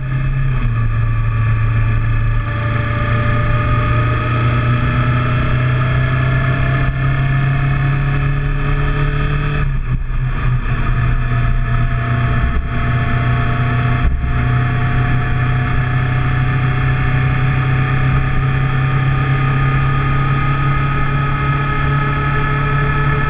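Motorcycle engine running on the move, its note climbing slowly as it gathers speed, with brief drops about ten and fourteen seconds in.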